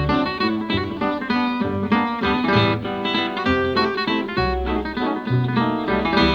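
Acoustic guitar music, many plucked notes in quick succession.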